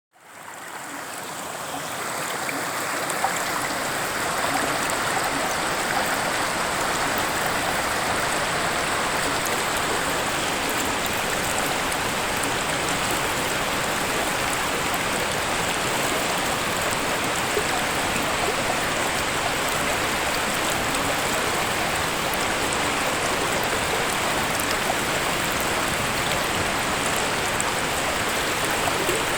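Waterfall rushing, a steady even splashing roar of falling water that fades in over the first few seconds.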